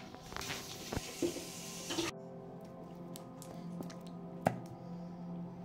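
Bean burger patties sizzling in hot oil in a frying pan, with a few clicks of the spatula as one patty is lifted. The sizzle cuts off suddenly about two seconds in, leaving soft background music and a few light taps.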